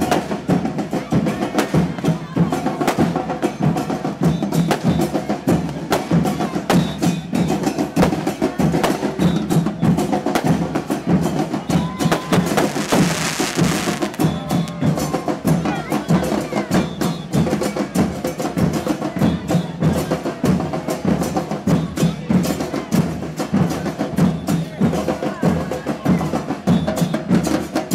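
Carnival murga drum troupe playing a fast, steady percussion rhythm on drums, with voices mixed in. A brief hiss cuts through about halfway.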